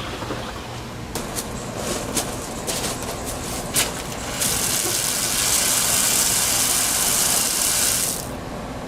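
Water rushing out of a newly installed outdoor hose bib. It starts about four seconds in, after a few clicks and knocks, and cuts off about four seconds later. A low steady hum runs beneath it throughout.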